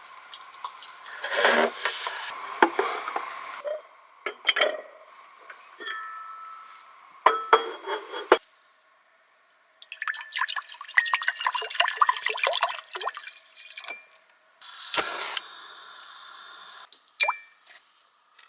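Cooking sounds in several short cuts: liquid pouring and dripping, with clinks of dishes and glass.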